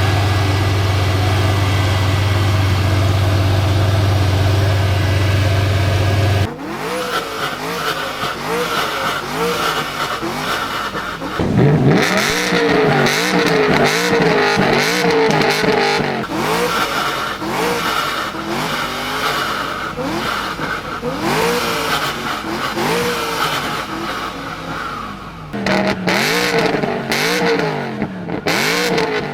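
High-performance car engine: a steady loud drone for about six seconds that cuts off suddenly, then a long series of quick revs, the pitch rising and falling about once a second.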